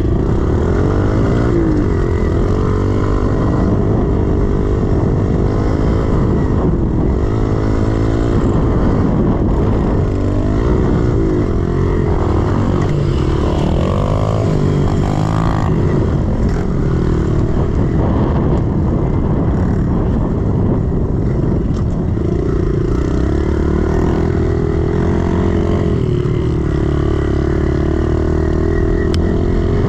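110cc four-stroke single-cylinder pit bike engine being ridden hard round a dirt track, its pitch rising and falling with the throttle and gear changes, then holding steadier in the last several seconds.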